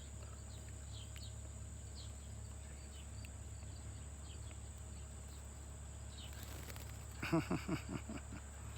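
Steady high insect trill, like crickets, with a few faint short chirps. Near the end comes a brief burst of a human voice.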